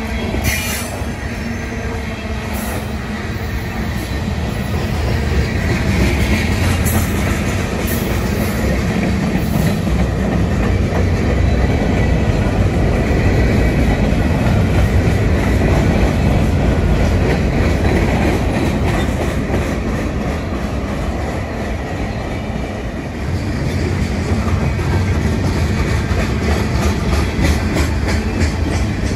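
CSX freight train's covered hoppers and tank cars rolling past at close range: a steady rumble of steel wheels on rail, with wheels clicking over rail joints and a faint wheel squeal at times.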